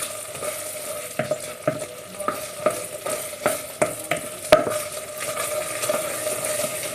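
Risotto being stirred in a sizzling pan: repeated scraping strokes against the pan, roughly twice a second, the loudest about four and a half seconds in, over a steady sizzle. The rice is thick and nearly done, stirred often so that it does not burn as it dries up.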